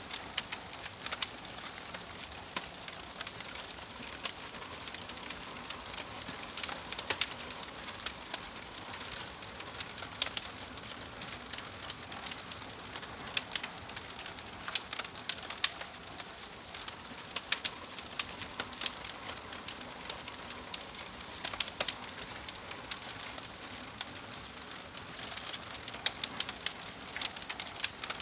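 Fire crackling: a steady hiss with frequent irregular sharp pops and snaps.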